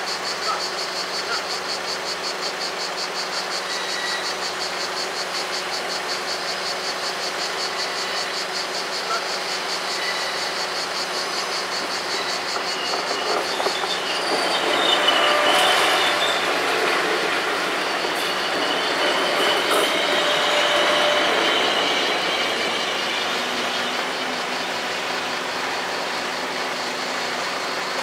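Level-crossing bells ringing rapidly and evenly with the barriers down. About halfway through a Trenitalia passenger train passes over the crossing, getting louder as it goes by with some high tones from the wheels, then fading.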